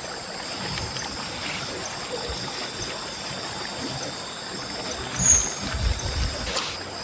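Forest ambience: steady high-pitched insect calls over a hiss of running water. About five seconds in there are low rustles and thumps, a short high chirp and a sharp click.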